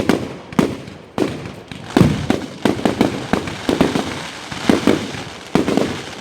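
Fireworks going off in a display: a rapid, irregular series of sharp bangs, about one or two a second.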